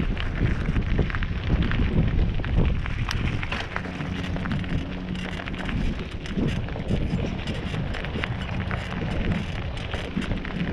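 Wind buffeting an action camera's microphone while a mountain bike rolls over a dirt trail, with a steady rush and a dense scatter of crackles and rattles from the tyres and bike.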